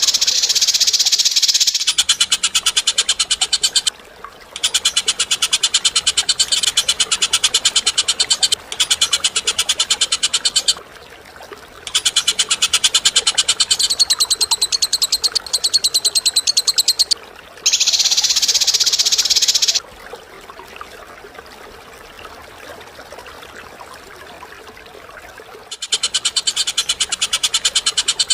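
Recorded bird calls: very fast, buzzy rattling trills in bouts of a few seconds, broken by short pauses and one longer quiet spell in the second half.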